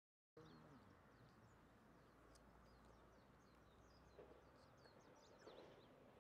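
Small birds chirping faintly, many short high calls, over a quiet rural hush. The sound drops out for a moment right at the start.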